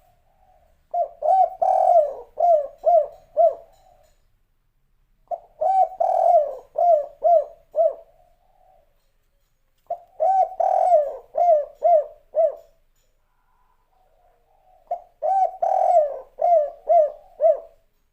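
Spotted dove (derkuku/tekukur) singing its 'kuk 3' song: four cooing phrases, each a soft lead-in note followed by a quick run of six or seven short coos, repeated every four to five seconds.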